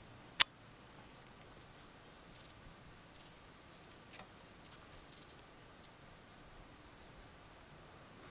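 Small birds chirping: about a dozen short, high chirps scattered over several seconds. A single sharp click about half a second in is the loudest sound.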